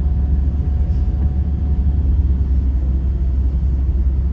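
Steady low road rumble of a vehicle driving on a highway: engine and tyre noise, even throughout.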